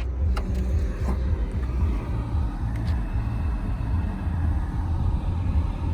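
2006 BMW 325xi's inline-six engine idling with a steady low rumble. A couple of faint clicks come in the first second or so.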